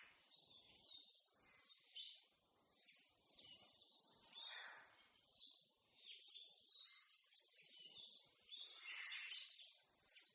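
Several songbirds singing at once, faint: a dense chorus of short chirps and trills overlapping throughout, with a few louder calls standing out about halfway through and near the end.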